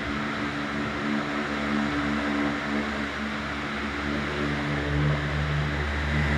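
Britânia C50 electric fan running, a steady rush of moving air over a low motor hum; the hum grows stronger about two-thirds of the way through. The uploader calls it the normal noise of strong wind, not noisy for a fan.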